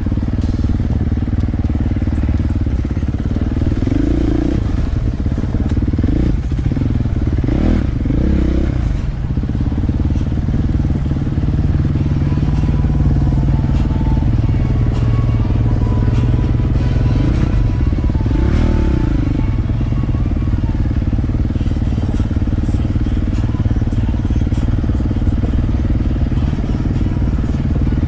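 Dirt bike engine running steadily under way, the revs rising and falling several times, around four seconds in, between six and nine seconds, and again around seventeen to nineteen seconds.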